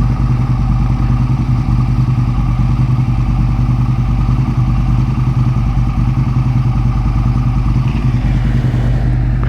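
Aprilia RSV1000's 60-degree V-twin idling steadily and evenly, a sign it is running well.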